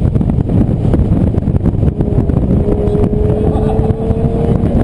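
Aston Martin DBS V12 engine running hard under load with a heavy low rumble, its pitch holding steady and then climbing slowly through the second half as the car accelerates.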